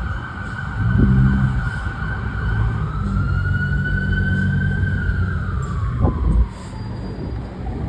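Fire engine siren wailing, slowly rising in pitch and then falling away about six seconds in, over the low rumble of the truck's engine.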